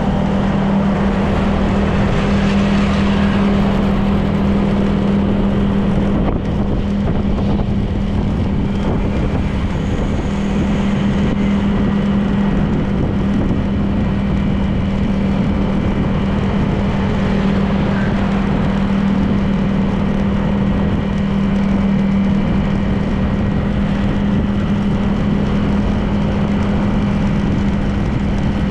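Honda PCX 160 scooter's single-cylinder engine running steadily at cruising speed, with a constant engine tone over wind and road noise.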